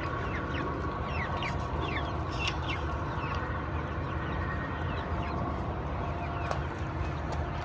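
Hens clucking and giving many short, falling chirps while scrambling after a tomato, over a steady background hum.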